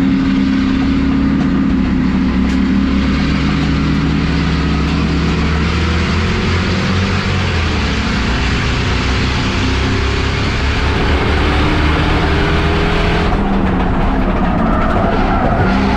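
Race car engines running hard at speed, a loud steady drone whose pitch drifts slightly up and down, with more than one engine tone in the mix.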